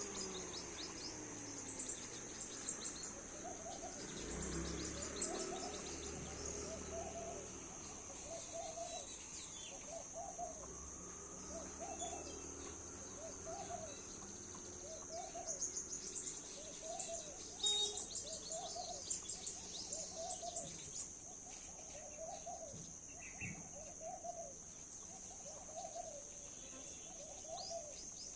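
A bird repeating a short, low hooting note about once a second, starting a few seconds in, each note rising and falling in pitch. Behind it runs a steady high-pitched drone of insects.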